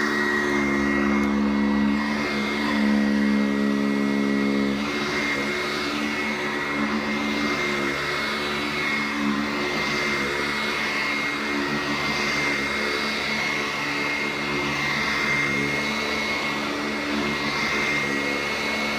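Sanitaire upright vacuum cleaner running steadily on carpet, its motor giving a high steady whine over a lower hum. The hum shifts a little about five seconds in.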